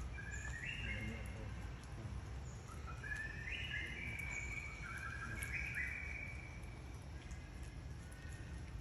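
A bird singing clear whistled notes that hold a pitch and jump up and down in steps, several overlapping, over a steady low background rumble.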